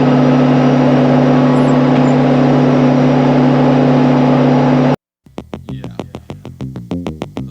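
Tractor engine running steadily while baling hay, which cuts off suddenly about five seconds in. After a brief gap, electronic music with a steady beat begins.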